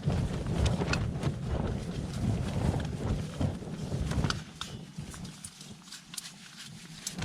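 Strong gusts buffeting a lightweight trekking-pole tent, the fabric flapping and snapping with irregular sharp cracks and a low wind rumble that eases about four and a half seconds in.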